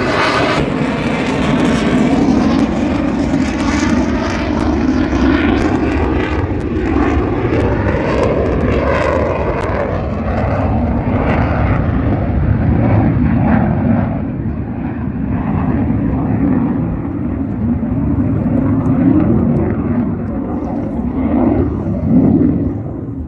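An airshow aircraft's engines roar loudly and steadily as it flies past, the tone sweeping up and down as it passes, then begin to fade near the end.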